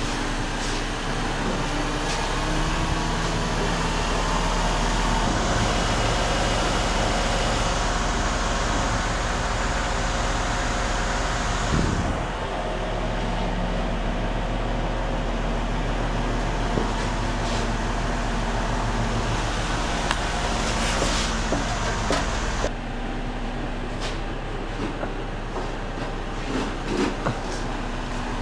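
Crane truck's engine running with a steady drone. The sound changes abruptly twice, about twelve seconds in and again a little after twenty seconds.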